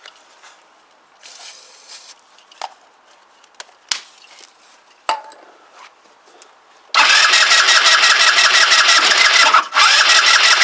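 A few light clicks and knocks, then about seven seconds in the Kymco Agility 125 scooter's engine is cranked over loudly for a few seconds, stops briefly and is cranked again, without settling into a run. Fuel is reaching the carburettor, and the owner leans towards a timing problem.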